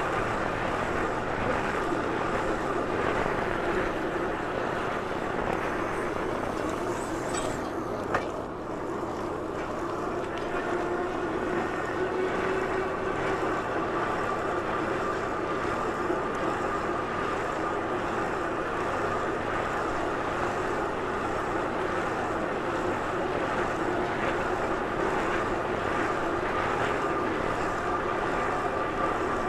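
A bike in motion at a fairly steady speed: steady rushing noise with a faint, slowly wavering hum, and a single short click about eight seconds in.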